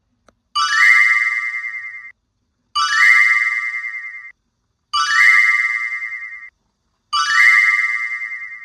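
Electronic chime-like tone sounding four times, each about a second and a half with a fast flutter and fading out, repeating about every two seconds.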